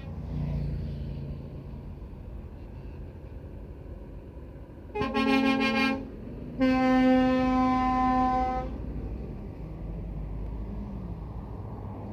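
A truck horn sounding two blasts over the low rumble of passing engines: a short blast of about a second, then a longer one of about two seconds.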